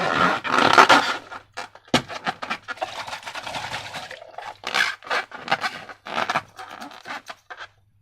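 Slime being handled and squeezed: irregular sticky squishing and scraping noises, with a sharp click about two seconds in. The sound stops just before the end.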